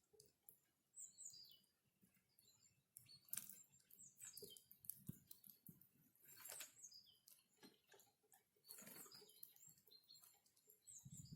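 Faint calls of small forest birds: short, high, downward chirps repeated every second or two, with scattered light ticks between them.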